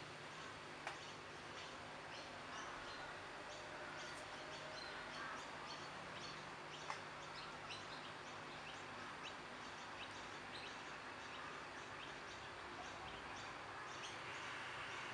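Small birds chirping repeatedly over a steady low hum, with two faint clicks, about a second in and near the middle.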